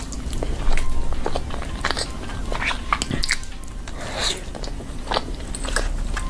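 A child biting into and chewing soft bread, with wet mouth smacks and clicks at irregular moments.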